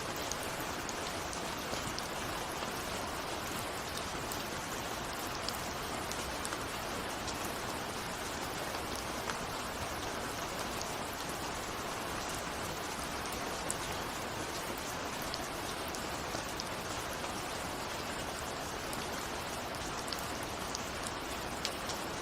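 Steady rain, with scattered individual raindrops ticking against a window.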